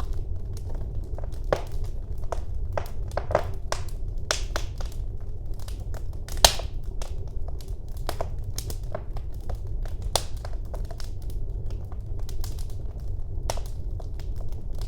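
Wood fire in a fireplace crackling, with irregular sharp pops over a steady low rumble of the flames; one pop about halfway through is the loudest.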